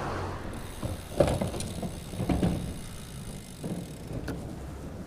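Bicycle riding on a city street heard from a bike-mounted action camera: steady wind and road rumble, with a few irregular knocks and rattles over bumps.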